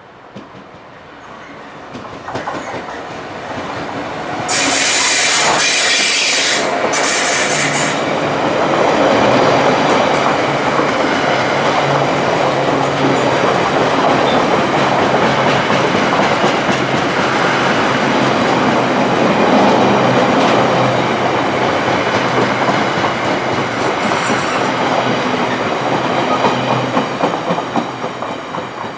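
Class 66 diesel locomotive passing, with its two-stroke V12 engine running under load. The sound builds over the first few seconds, then a loud hissing burst lasts a few seconds. After that comes a long steady rumble of the engine and wheels rolling over the rails, with some clickety-clack and a little wheel squeal, easing near the end.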